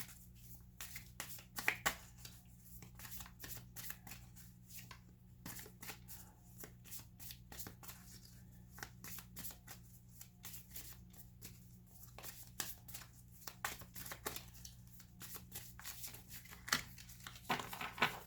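Tarot cards being shuffled by hand: a continuous patter of soft card flicks and slaps, louder about two seconds in and again near the end, over a steady low hum.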